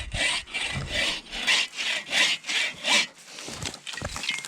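Hand saw cutting through wood in quick back-and-forth strokes, about three a second. The strokes stop about three seconds in.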